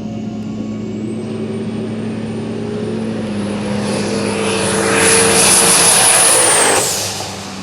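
Junkyard 5.3-litre LS V8 shop truck under hard acceleration, a high-pitched whine climbing steadily over the engine. It gets loudest over the last few seconds, then cuts off sharply near the end.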